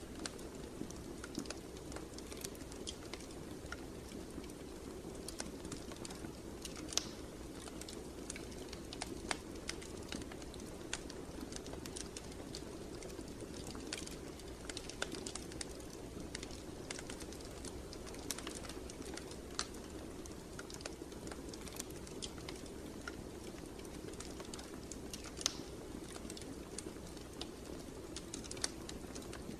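Wood fire burning in a fireplace: a steady low rush of flame with irregular crackles and sharp pops of the burning logs.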